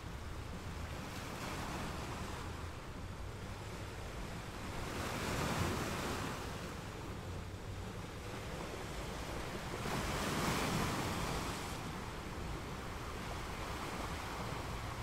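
Atlantic sea waves washing and surging, swelling louder twice, about five and ten seconds in.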